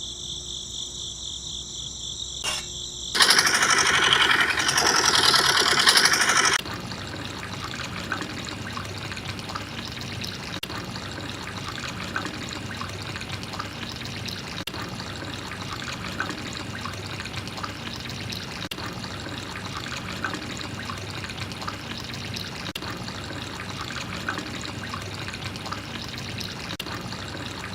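Water pouring and trickling from a small toy water pump's outlet. A louder rush of water comes about three seconds in and lasts a few seconds, then settles into a steady trickle with small splashes.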